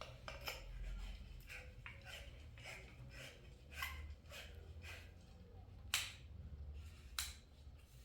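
A series of irregular sharp clicks and knocks, the loudest about six seconds in, over a low hum.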